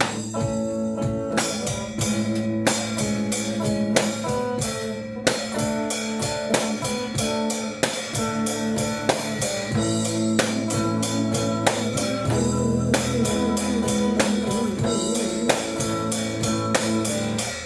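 Instrumental song intro on guitar with a drum kit keeping a steady beat.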